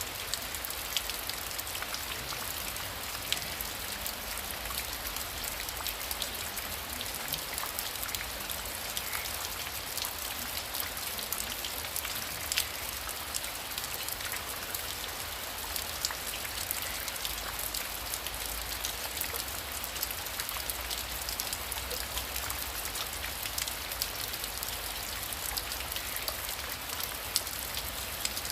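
Heavy rain falling steadily: a constant hiss with many sharp drop ticks scattered through it, over a low rumble.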